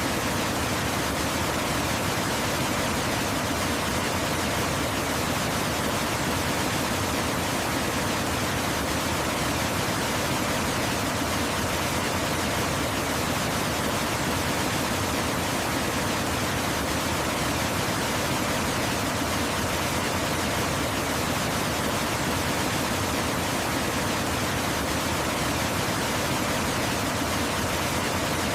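Waterfall rushing, a steady, even hiss of falling water with no breaks or changes.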